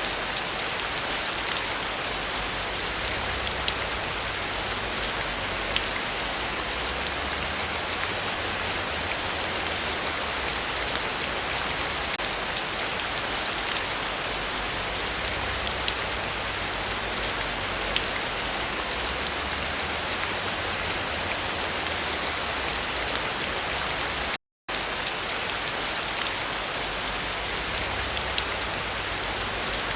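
Steady heavy rainfall: an even, continuous hiss dotted with sharp ticks of single drops. About two-thirds of the way through the sound cuts out completely for a fraction of a second, then resumes.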